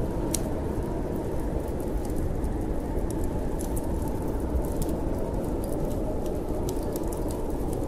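Storm wind as a steady low rumble, with a wood fire in a fireplace crackling over it in irregular small pops.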